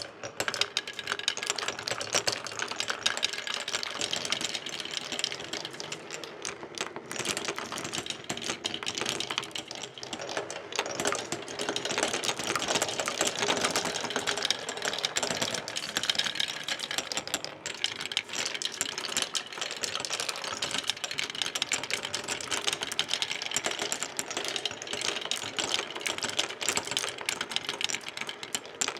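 Marbles rolling and clacking down the tracks of a Hape marble run: a dense, continuous rattle of small clicks.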